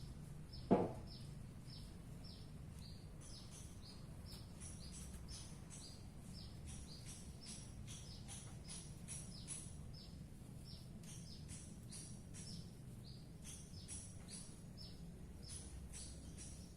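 Greater green leafbird (cucak ijo) singing: a fast, steady run of short, high, falling notes, about two a second, with sharper, higher notes joining in from about three seconds on. A single loud knock sounds near the start, over a low steady hum.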